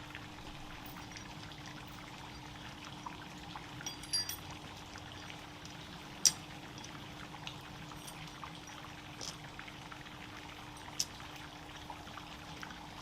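Wood campfire burning: a steady hiss with scattered sharp crackles and pops, the loudest about six seconds in, over a faint steady hum.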